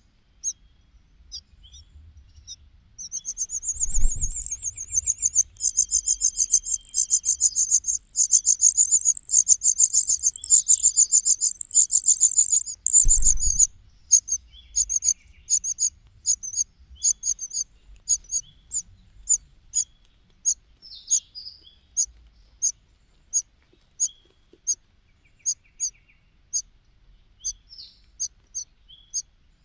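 Nestlings begging: a dense, high-pitched chorus of rapid cheeping for about ten seconds, opened and closed by a low thump. This gives way to one chick repeating short, high cheeps about twice a second.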